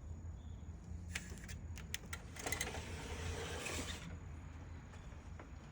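A door being unlatched and opened: a few sharp clicks of the latch and handle, then a scraping slide lasting about a second and a half.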